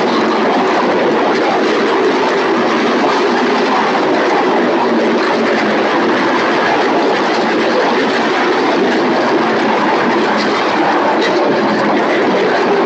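A pack of NASCAR Craftsman Truck Series race trucks running at speed: a steady, dense mass of engine noise from many V8s at once.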